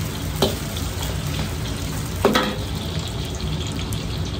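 Shredded beef and sliced onion bubbling and sizzling in a wok of hot oil as they are blanched through it and stirred. Two sharp clinks of a metal utensil against the wok, one about half a second in and a louder one a little after two seconds.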